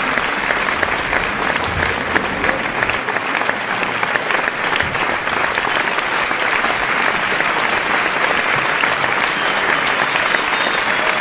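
Crowd applause: many people clapping steadily in a dense, continuous patter.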